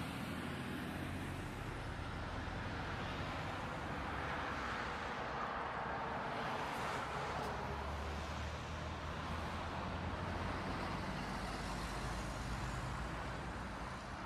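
Steady low hum of a car engine idling at a standstill, with city street traffic noise around it, heard from inside the car's cabin.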